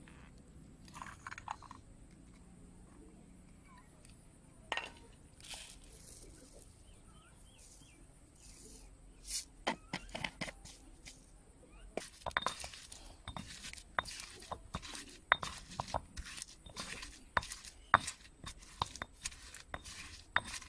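Kitchenware clinking and knocking: a few sharp clinks at first, then quick irregular clinks and knocks coming thick from about halfway through.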